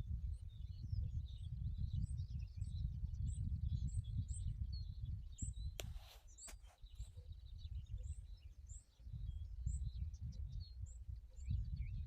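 Small birds chirping repeatedly in short high notes over a fluctuating low rumble, with two sharp clicks about six seconds in.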